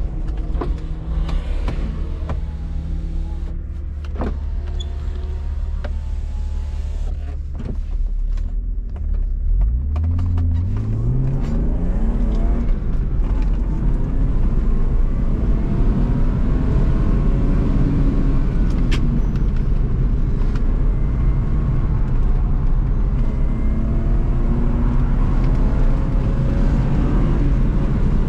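BMW E36 323i's 2.5-litre straight-six idling steadily, heard from inside the cabin, then revving up about ten seconds in as the car pulls away. It then runs under load with the pitch rising and falling, over tyre and road noise.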